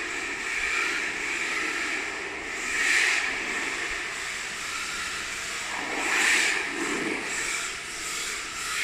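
Electric RC drift car running: its motor whines and its hard tyres hiss as it slides on the surface, growing louder twice, about three and six seconds in.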